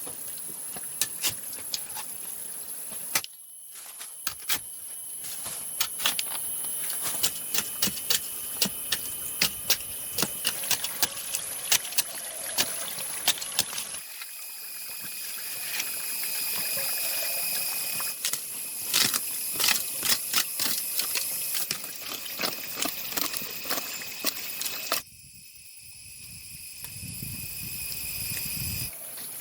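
Irregular sharp knocks and taps of hand tools working bamboo, over a steady high-pitched insect drone. The sound changes abruptly three times, as separate takes are cut together.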